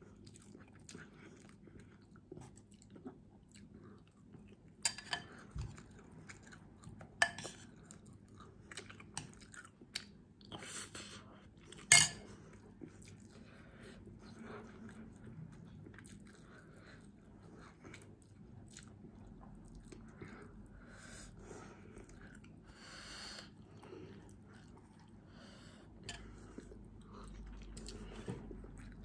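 Close-up chewing and mouth sounds of someone eating milkfish and rice, with scattered sharp clicks of cutlery against a dish, the loudest about twelve seconds in.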